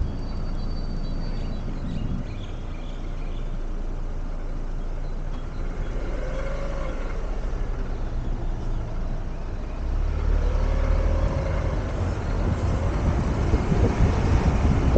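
City street traffic: a steady low rumble of car and truck engines and tyres, growing louder about ten seconds in, with two brief whines that rise and fall.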